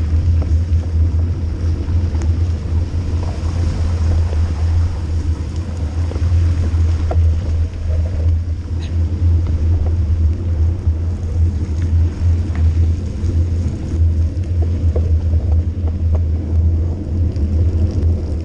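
Steady low wind rumble buffeting the camera microphone on a fast bike descent, with tyre noise and a few faint clicks from the trail underneath.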